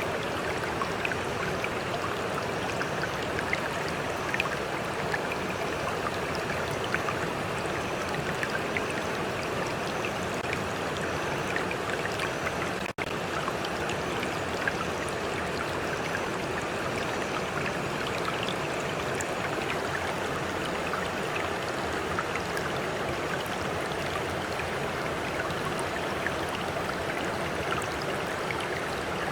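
Stream flowing steadily, a continuous rush of water with small splashes and plinks scattered through it. The sound cuts out for an instant about halfway through.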